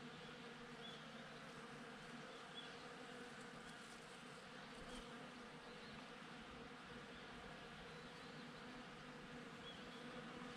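Bees buzzing steadily as they forage, a faint, even hum, with a few tiny high chirps scattered through it.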